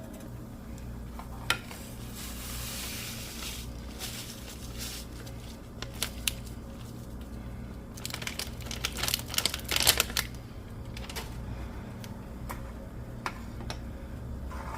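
Spoon clicking and scraping against a pot while stirring instant mashed potatoes, with scattered single clicks and a quick run of clicks about eight to ten seconds in. A steady low hum runs underneath.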